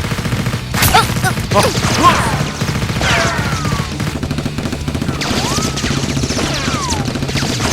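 Rapid, continuous bursts of gunfire sound effects, with several falling whistling whines laid over the shots.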